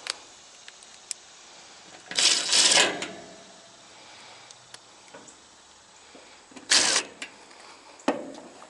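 Screws being driven into an air-conditioner condenser's sheet-metal panel with a power driver: two short runs, the first about a second long, the second briefly near the end, with small metallic clicks of handling between.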